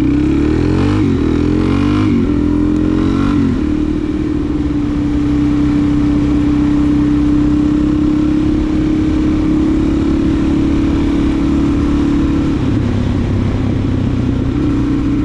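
Suzuki DR-Z400SM's single-cylinder four-stroke engine under way: it revs up and drops back several times in the first few seconds as it shifts up through the gears, then holds a steady cruise, easing off a little near the end.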